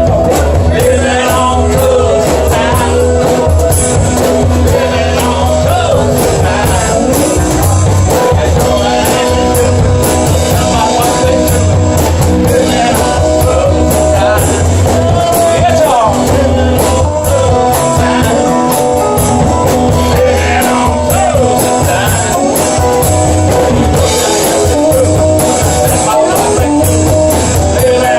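Live band jamming a rock-and-roll/blues number with a steady beat and bass line, and a voice singing over it.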